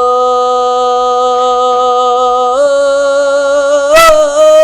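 A young man singing one long held, melismatic note of an Arabic praise song for the Prophet (madih), the pitch stepping up about two and a half seconds in and wavering near the end.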